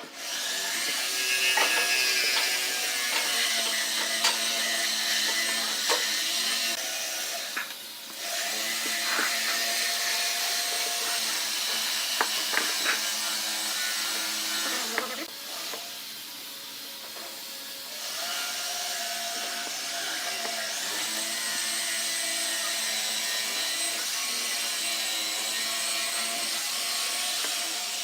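Woodworking power tool motor running with a steady hum while wood is cut, with scratchy ticks from the cutting. It drops off briefly about a third of the way in and again for a few seconds around the middle, then picks up again.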